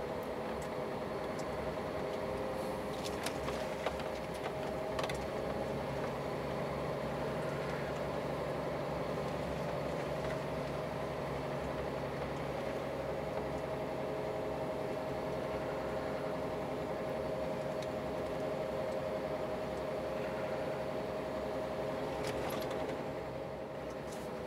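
Scania truck's engine and road noise heard inside the cab while driving: a steady drone with held tones, and a lower hum joining in for several seconds near the start. A few faint clicks sound over it.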